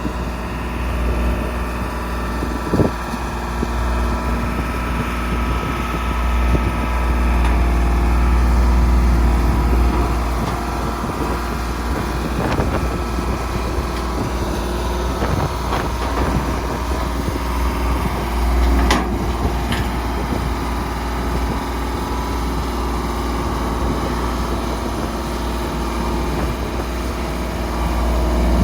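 Vehicle driving at road speed, heard from inside the cab: a steady low engine and road-noise rumble.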